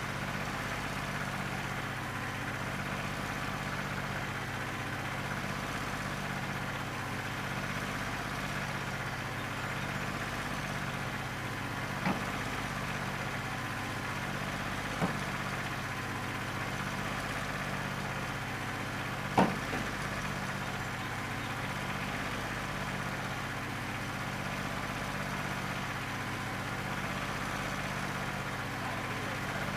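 New Holland 1320 tractor's three-cylinder diesel running steadily, not firing on all cylinders because of an injector that the owner believes is bad. Three short sharp knocks break through near the middle, the last the loudest.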